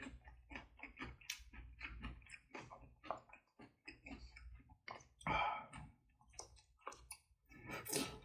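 A person chewing food close to the microphone, with many small wet mouth clicks and smacks and a louder burst about five seconds in.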